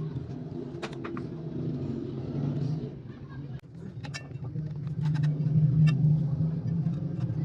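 A motor running with a steady low drone that grows louder about five seconds in, with scattered sharp clicks.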